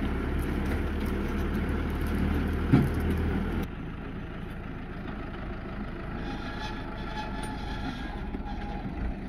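A motor vehicle running with a steady low rumble, which drops suddenly in level a little over a third of the way in and carries on more quietly.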